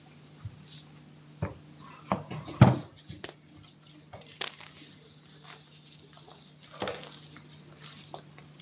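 Close-miked chalk being crunched: irregular crackles and snaps, the loudest cluster about two and a half seconds in and another near seven seconds, over a faint steady hum.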